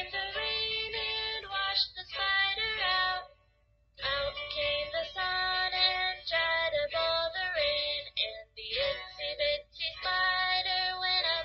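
Children's nursery-rhyme music with a sung melody in a bright, synthetic-sounding voice, breaking off for about a second some three seconds in before carrying on.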